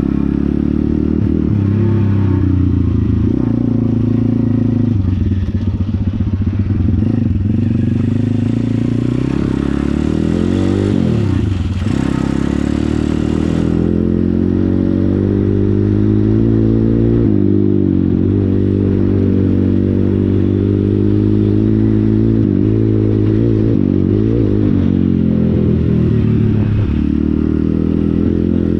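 Pit bike's small single-cylinder engine running steadily. Its speed dips and rises again about ten seconds in and again near the end.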